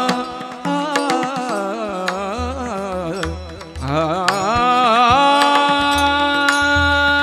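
A male voice sings a devotional kirtan melody on long melismatic vowels, twisting and wavering for the first few seconds, then holding steady notes from about four seconds in. Low drum strokes and light metallic clicks of hand cymbals accompany it.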